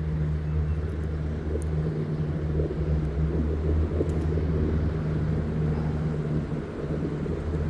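Small jet boat's engine idling steadily on the water, a low, even engine note before it pulls away.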